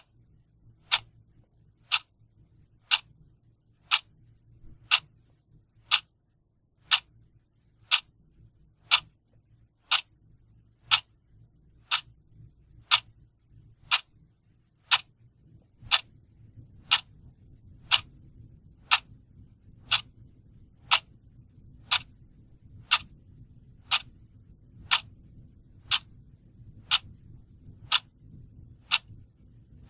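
A mechanical clock ticking steadily, about one sharp tick a second.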